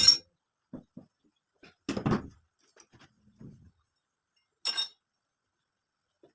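Hard objects clinking and knocking now and then: a couple of clattering knocks, then one ringing clink a little before the end.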